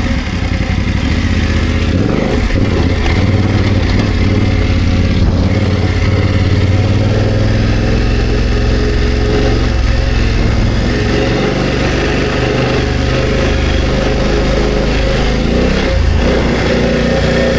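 BMW F900GS's parallel-twin engine running at low revs while riding off-road, a steady low rumble whose pitch rises and falls a little with the throttle.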